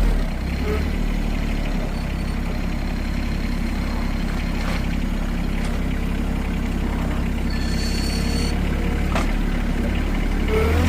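Farm tractor's engine running steadily at a low rumble, with a brief high-pitched tone about three-quarters of the way through.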